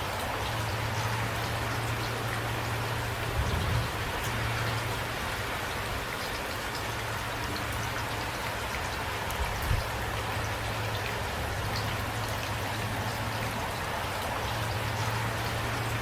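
Steady rain falling, with individual drops ticking through a constant patter. Two brief low thumps come about three and a half seconds in and again near ten seconds.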